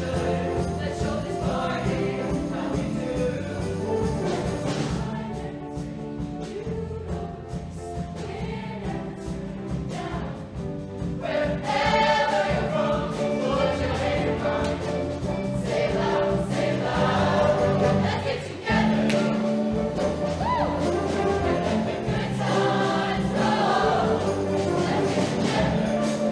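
Show choir singing in full harmony over musical accompaniment with a steady bass line; it drops quieter for a few seconds, then swells louder about halfway through.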